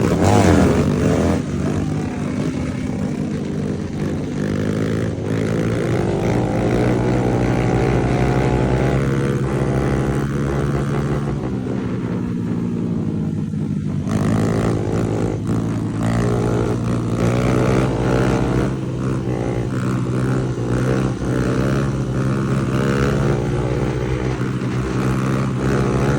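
Honda Grom's 125 cc single-cylinder engine running hard under throttle through a stunt run, its pitch rising and falling with the revs. The loudest sharp rev comes about half a second in.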